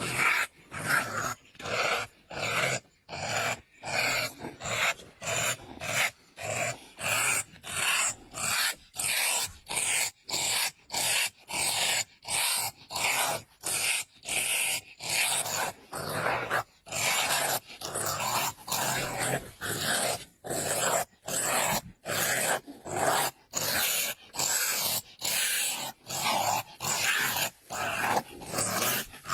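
An animal growling in short, harsh bursts, about two a second, repeated without a break.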